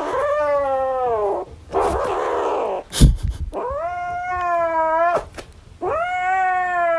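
A cat yowling: three long drawn-out wails, the first falling and the later two held steady. A breathy, noisy stretch follows the first wail, and there is a sharp knock about three seconds in.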